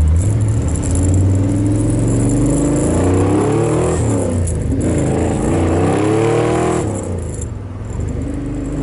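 Ford Falcon Mad Max Interceptor replica's blown engine pulling hard through two gears. The pitch rises steadily, dips at a shift about four seconds in, rises again, then falls away as the driver eases off about seven seconds in.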